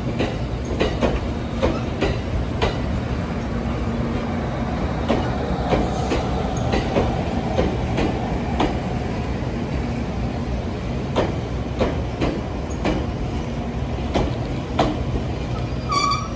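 A train running along the track: a steady low rumble with sharp, irregular clicks from the wheels over rail joints.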